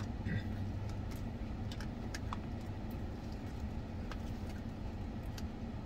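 A person chewing a mouthful of salad: faint, irregular crunches and mouth clicks over the steady low hum of a car's cabin.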